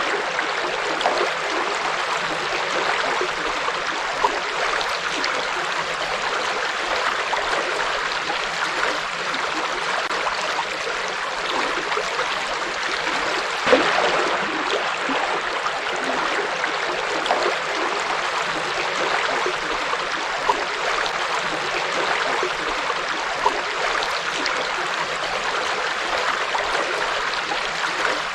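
River water flowing steadily over rocks, an even rushing wash with a few brief louder splashes, the largest about halfway through.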